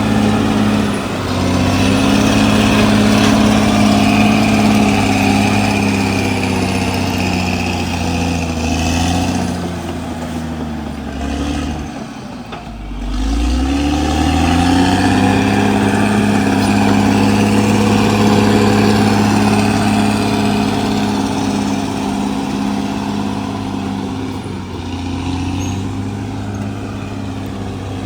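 Caterpillar D6R XL bulldozer's diesel engine working steadily. About halfway through, the engine note drops briefly and then rises again.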